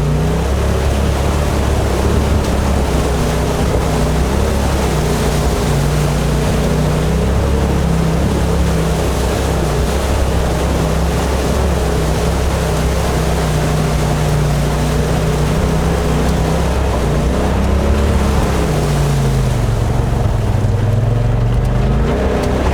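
2018 Polaris RZR XP Turbo S side-by-side's turbocharged twin-cylinder engine running steadily as it drives through river water, with a constant rush of splashing water. The engine note drops and climbs back near the end.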